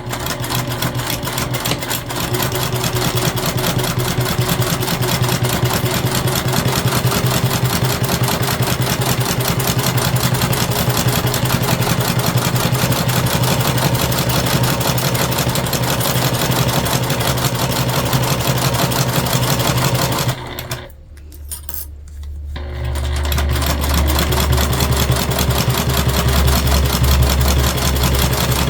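Domestic sewing machine running, stitching zipper tape onto jelly vinyl with a fast, even rhythm of needle strokes. It stops for about two seconds about three-quarters of the way through, then starts sewing again.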